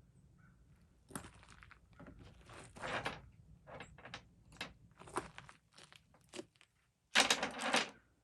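Chainsaw parts being handled and fitted back together: an irregular run of clicks and scrapes of the bar, chain and side cover, with a louder rattling scrape near the end.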